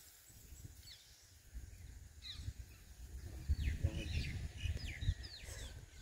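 Birds calling: a string of short, sharp calls, each falling in pitch, beginning about two seconds in, over a gusty low rumble on the microphone.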